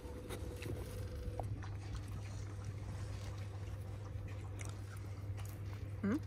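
A man chewing a piece of pizza crust, with faint clicks over a steady low hum. Near the end comes a short whine that rises and falls in pitch.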